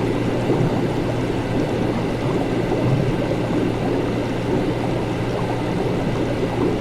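Laboratory ambience: liquid bubbling and gurgling continuously over a steady low hum.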